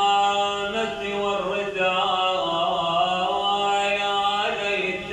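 Slow wordless chanting: long held notes that shift slowly from one pitch to the next.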